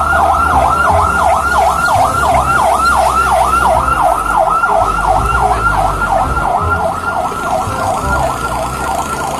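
Electronic siren of a Robocar Poli Roy toy fire truck, a loud fast wail that falls in pitch about four times a second and repeats steadily.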